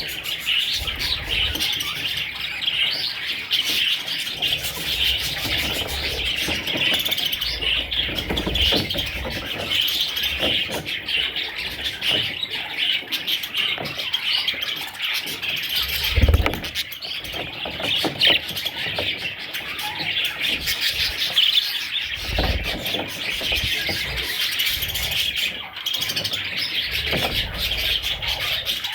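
Budgies chirping and chattering nonstop in dense overlapping calls, with a few brief low thumps.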